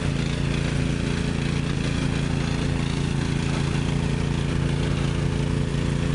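Ariens 10 hp snowblower engine running steadily.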